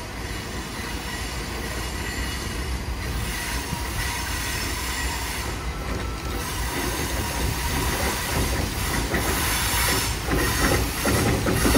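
Berkshire & Eastern freight train B101 rolling by on steel rails, growing louder towards the end.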